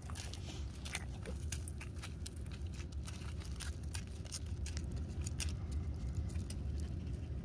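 Crunchy chewing: many irregular crisp crackles over a low steady rumble.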